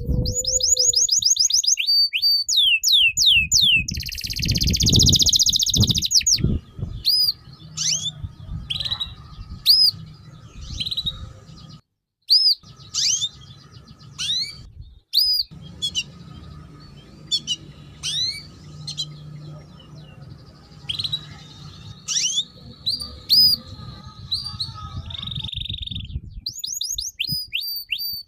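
A songbird singing vigorously, the kind kept to provoke other birds into song. It gives rapid runs of high whistled notes that sweep downward, scattered chirps and a harsh buzzy phrase, and the sound cuts out briefly twice.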